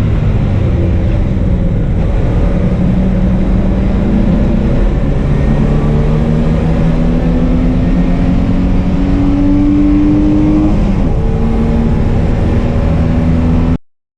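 Car engine, most likely the E30's BMW M30 straight-six, pulling under load, its pitch climbing slowly, dropping about eleven seconds in, then holding steady. It cuts off suddenly just before the end.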